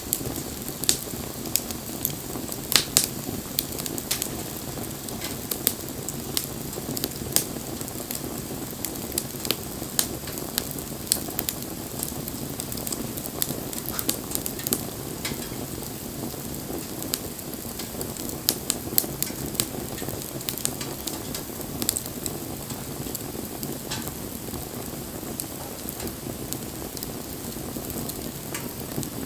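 Wood fire burning with a steady hiss and irregular sharp crackles and pops of burning wood.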